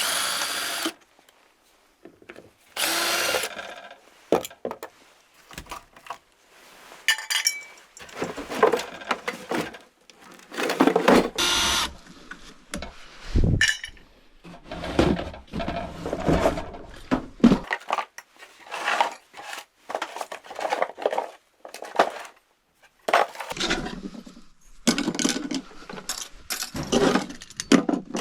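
Demolition and cleanup work: a power tool running in many short bursts, mixed with knocks and crashes of wood and debris, with brief pauses between.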